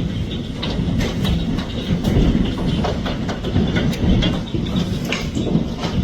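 Heavy hail falling: a dense, irregular clatter of hailstones striking, over a steady rushing noise.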